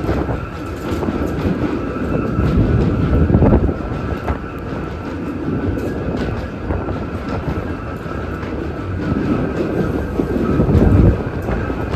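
New York City subway train running on the tracks: a continuous rumble with scattered wheel clicks and a thin steady tone, swelling louder about three and a half seconds in and again near the end.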